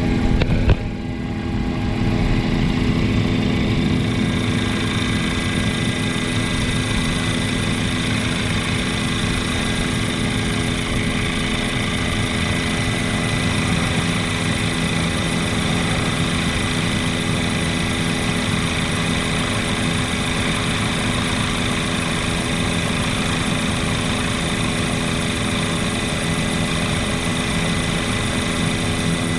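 Helicopter engine and rotor drone heard from inside the cabin: a loud, steady hum of fixed tones over a low rumble. A brief click and dip just under a second in.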